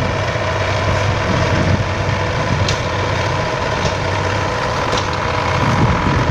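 MTZ-82 tractor's four-cylinder diesel engine running steadily while grading the ground.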